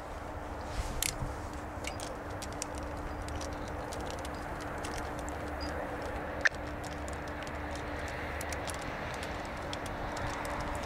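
Steady rumble and hiss of a distant approaching GO Transit diesel commuter train, with a steady low hum. Faint clicks are scattered through, and there is one sharp click about six and a half seconds in.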